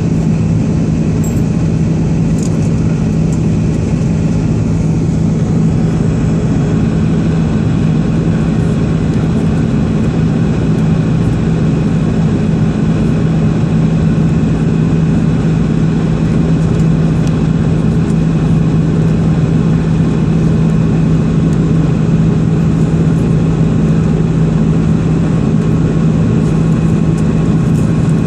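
Jet airliner's engines heard from inside the passenger cabin: a loud, steady drone with a strong low hum.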